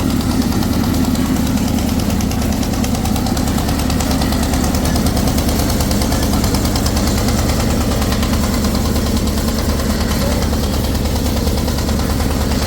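Engine running steadily with a fast, even chugging that does not change.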